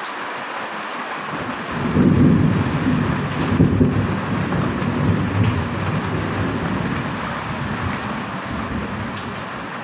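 Steady heavy rain, with a long roll of thunder that rumbles in about two seconds in, is loudest for the next couple of seconds and then slowly dies away under the rain.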